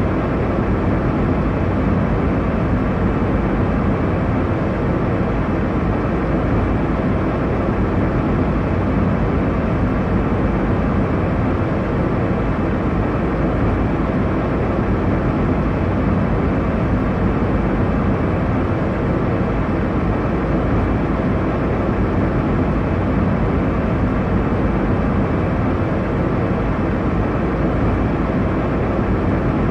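Airliner cabin noise: a steady, deep rushing sound that does not change, heaviest in the bass and thinning out toward the treble.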